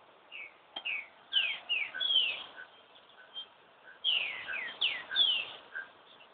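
Bird song: two phrases of quick, loud downward-slurred whistled notes, the first about a third of a second in and the second about four seconds in. A fainter short note repeats in the background, and there is a single click near the start.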